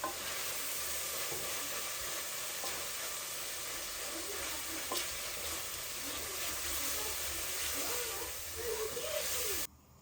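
Food sizzling and frying in a hot pan: a steady crackling hiss that cuts off abruptly near the end.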